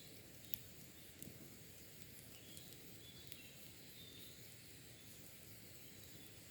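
Faint, scattered crackles and pops from a campfire burning down to embers, with a few faint short high bird chirps among them.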